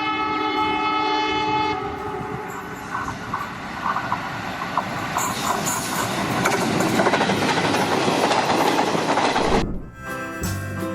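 A train horn sounds for about two seconds, then the rolling rumble and wheel clatter of a passing train builds up louder and cuts off suddenly near the end, giving way to music.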